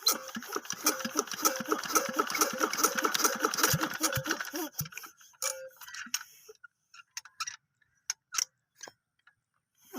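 Single-cylinder diesel engine of a tubewell running with an even, rapid knock of about six beats a second. The knocking stops about five seconds in, leaving a few scattered clicks and knocks.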